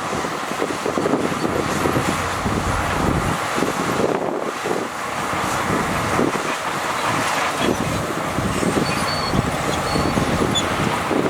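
Heavy diesel earthmoving machinery running steadily, with a dense, continuous rattle.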